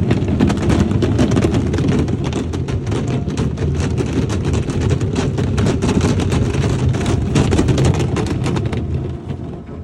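Waterfall water pouring down onto a Hyundai Alcazar SUV's body: a loud, dense roar with a deep rumble and constant sharp spattering hits, fading away near the end.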